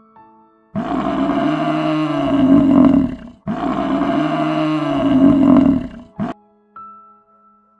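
A large animal's loud call, given twice in a row, each lasting about two and a half seconds and the two nearly identical, with soft piano notes before and after.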